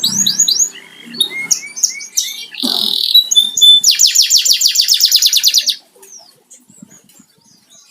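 Domestic canary singing: a run of quick down-sweeping whistled notes, then a rapid rolling trill of evenly repeated notes from about four seconds in that breaks off shortly before six seconds.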